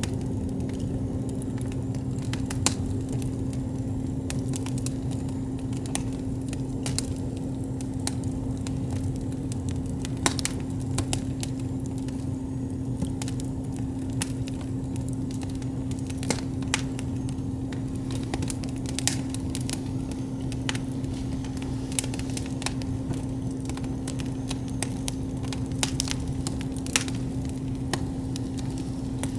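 Wood campfire burning, with irregular crackles and pops and a few sharper snaps, over a steady low hum.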